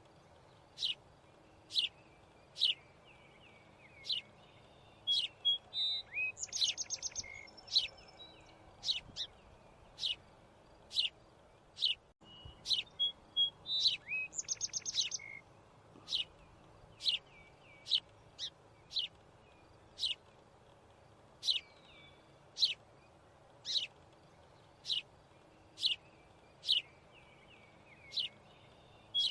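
Bird chirping: short, sharp high-pitched chirps repeated about once a second, broken twice by a quick rattling trill.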